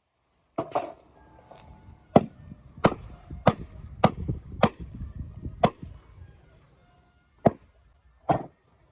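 Firewood being split with an axe: a series of sharp wooden chops, coming regularly about every two-thirds of a second, then two more blows spaced further apart near the end.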